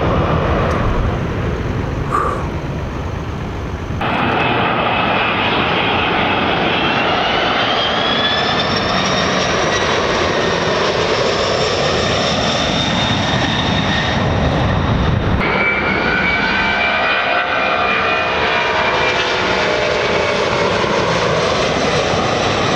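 Firefighting airtanker flying over, a loud steady aircraft engine noise with high whining tones that slowly glide up and down in pitch. The sound jumps abruptly about four seconds in and again about fifteen seconds in.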